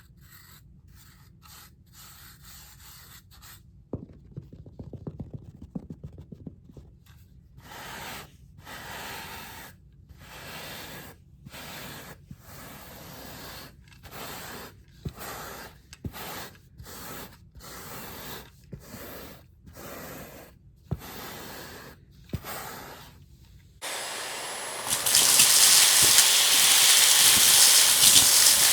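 Stiff carpet brush scrubbing back and forth across a rug scattered with crunchy debris, in short strokes about one a second. Near the end a vacuum cleaner switches on and runs with a loud, steady hiss.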